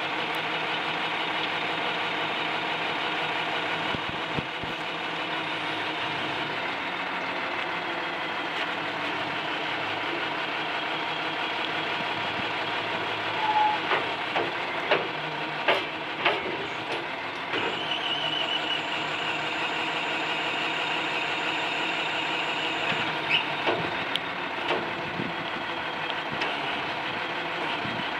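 Bucket truck's engine running steadily, with a series of sharp metallic clanks about halfway through and a few more near the end, and a steady high whine for several seconds between them.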